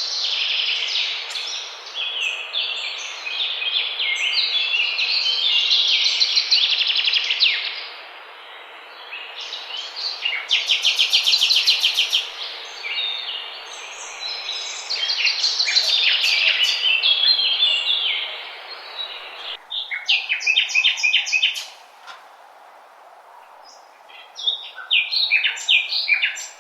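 Many birds chirping and calling at once, with rapid trills and quick runs of repeated notes overlapping. A steady background hiss under the calls stops about twenty seconds in, leaving scattered chirps.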